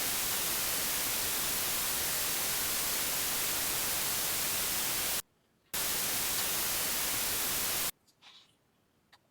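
White noise from a homemade Android white-noise app playing on a phone: a steady, even hiss that cuts out for about half a second a little past halfway, comes back, and stops shortly before the end. A couple of faint clicks follow.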